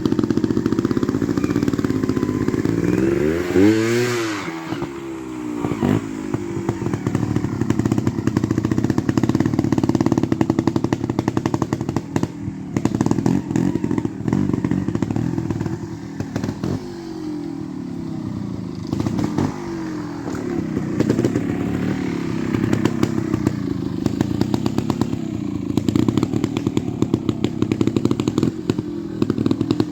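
Beta EVO trials motorcycle engine running at low revs with repeated throttle blips, revving sharply up and back down about four seconds in, with scattered knocks and clatter throughout.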